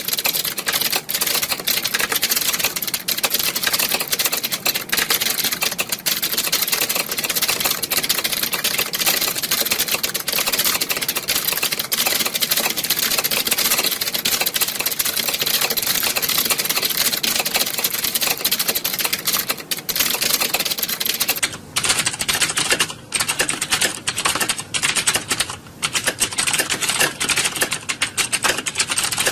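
Many computer keyboards being typed on at once, a dense, unbroken clatter of overlapping key clicks. About two-thirds of the way through the sound changes, and the clicks become sparser and more separate.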